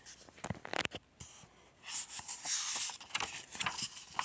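Handling noise from a picture book: a few light knocks in the first second, then paper rustling from about two to three seconds in, with scattered taps after.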